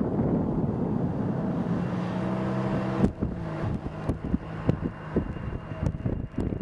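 Strong wind buffeting the microphone, with a steady low engine hum joining about two seconds in. From about three seconds in, sharp knocks and crackles break through.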